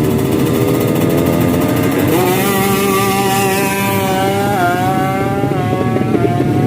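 Drag-racing motorcycle engine at high revs. Its pitch climbs sharply about two seconds in, then holds high with a few short dips and recoveries.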